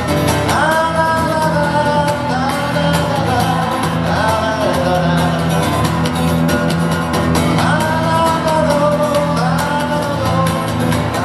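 Live rock-band music in a hall: steady bass notes and guitar under a lead melody line in long, gliding phrases, about five of them, with no lyrics sung.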